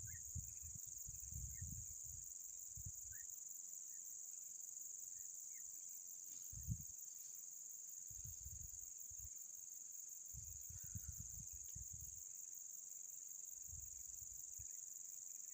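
Crickets trilling in a steady, high-pitched chorus, with gusts of wind buffeting the microphone in uneven low rumbles and a few faint short chirps.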